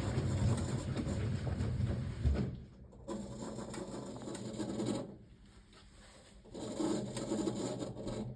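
1978 Siemens WA4600 washing machine turning its drum through the wash with wet laundry: the motor runs in spurts of about two seconds with short pauses between, three times.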